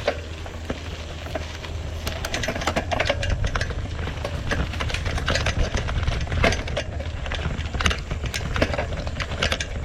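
Mountain bike riding over a rough trail: irregular clicks and rattles from the bike over a steady low rumble.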